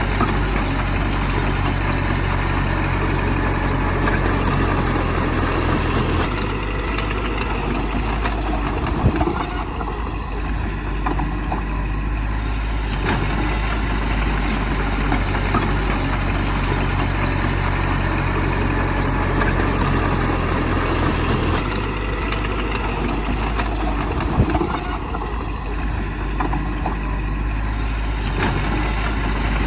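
Heavy diesel engine of earthmoving machinery running steadily, its low note dropping away about six seconds in and again about twenty-two seconds in. Two short sharp knocks, one about nine seconds in and one about twenty-four seconds in.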